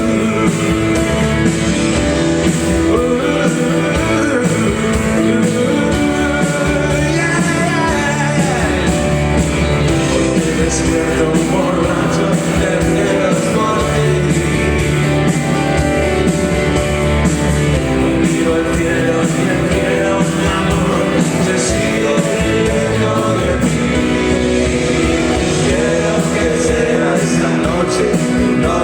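Live rock band playing at steady full volume, with guitar prominent.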